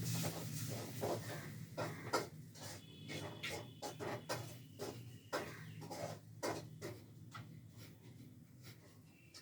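Kapalbhati breathing: short, forceful exhalations snorted out through the nose in quick succession, about two or three a second, growing fainter toward the end.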